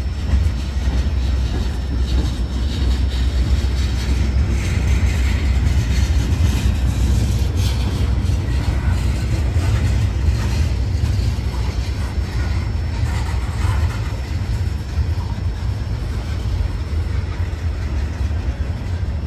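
Freight train of tank cars and covered hoppers rolling past, a steady low rumble with scattered clicks and squeaks from the wheels.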